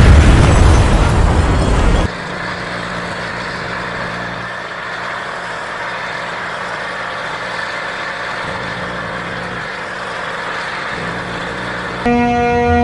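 A loud rushing noise for about two seconds, then steady road-vehicle noise with a low hum. A loud horn blares near the end.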